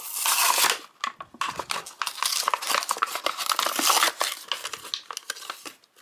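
Plastic and card toy packaging being handled and pulled open: a dense run of crinkling and crackling with many small clicks, dying away near the end.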